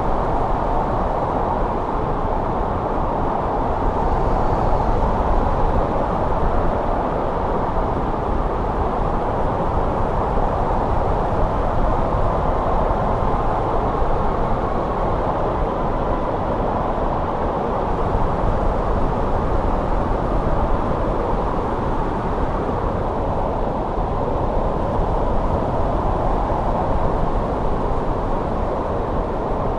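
Winter wind blowing steadily: a dense rushing noise, heaviest in the low and middle range, that swells and eases a little.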